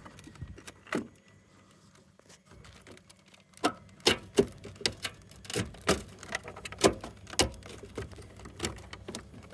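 Handling of a washing machine's plastic wiring connectors and control board: irregular sharp clicks and knocks, a single one about a second in, then a busy run of them from about three and a half seconds in.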